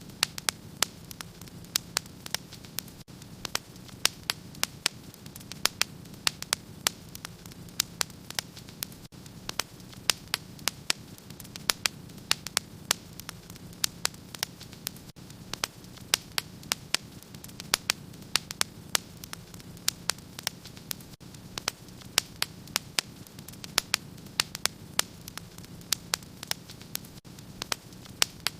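Wood fire crackling in a fireplace: frequent sharp pops and snaps, several a second, over a steady low background noise.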